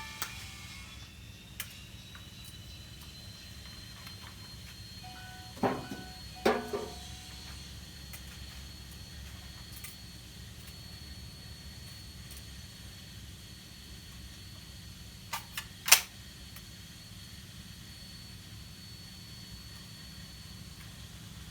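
A few sharp knocks, as of wood being struck in a workshop, over a steady faint hum and hiss: one pair about a quarter of the way in, and three quick ones past the middle, the last of these the loudest.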